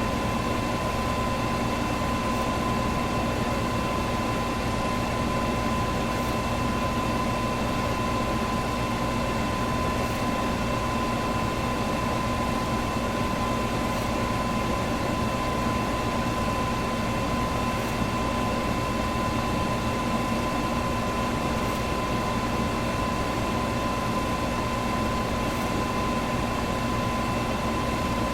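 Electric fan running steadily: an even rush of moving air with a constant hum and a clear steady tone over it.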